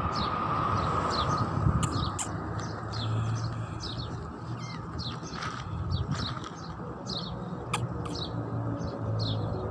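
Small birds chirping over and over: short, high, downward chirps, several a second, over a low steady hum, with a few sharp clicks.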